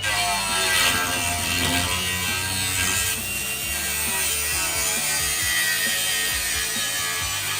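Power saw cutting steadily through sheet-metal truck body panels, with music playing underneath.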